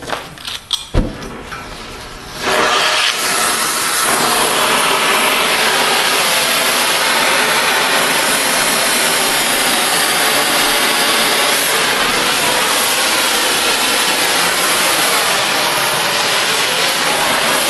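A few knocks, the loudest a sharp clank about a second in, then about two and a half seconds in an oxy-fuel cutting torch starts a loud, steady hiss as it cuts through steel railroad rail.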